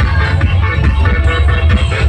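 Loud electronic dance music with heavy bass, played through a truck-mounted parade sound system.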